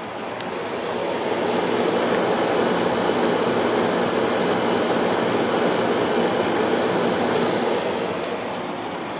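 Fedders window air conditioner running on cool, its Sanyo rotary compressor and fan giving a steady airy rush over a low hum. The sound grows louder about a second in and eases back near the end.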